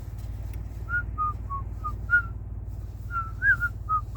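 A person whistling a short tune: two phrases of brief, slightly gliding notes, over a steady low hum.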